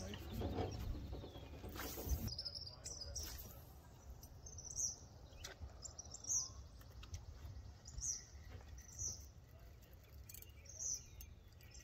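Small bird chirping outdoors: short, high chirps repeated every second or two, over a faint low rumble, with a few faint clicks and knocks in the first few seconds.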